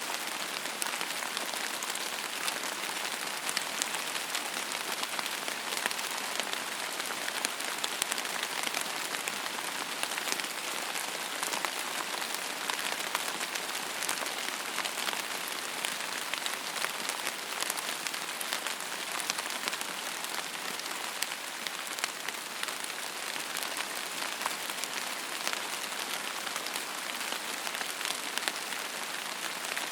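Steady rain falling on a surface, a dense patter of many small drops with a hiss, holding even throughout.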